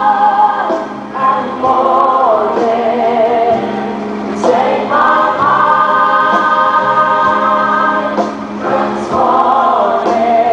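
Gospel choir singing with sustained, held notes, in phrases that pause briefly about a second in and again after about eight seconds.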